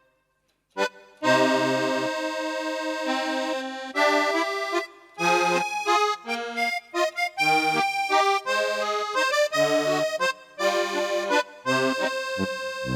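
Accordion tone on a Casio AiX digital keyboard, playing chords over a bass line in short phrases with brief gaps. The keyboard is silent for about the first second.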